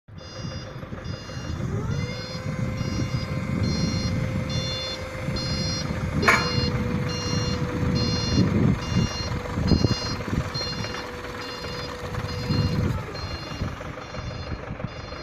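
Diesel forklift running with its reversing alarm beeping steadily, about two beeps a second, over a rising and falling engine rumble. A steady whine comes in about two seconds in and stops near the end, and there is one sharp knock a little past the middle.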